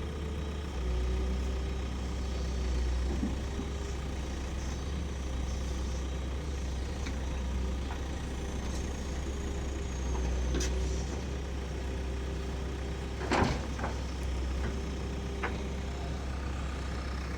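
Heavy diesel engines of earthmoving machines and a dump truck running steadily, swelling in level a few times. A sharp metallic knock comes about 13 seconds in, with a few lighter clicks around it.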